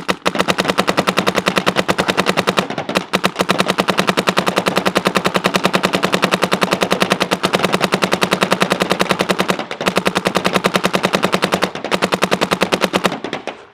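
Shocker ERA electropneumatic paintball marker firing full-auto on compressed air: a rapid, even stream of shots with a few short breaks, stopping shortly before the end. The balls break on target signs, so their hits mix with the marker's own shots.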